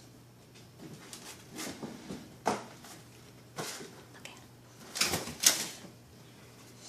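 A dog scuffling with a rubber balloon, knocking and rubbing against it in a string of irregular sharp knocks and scuffs, loudest just after the middle.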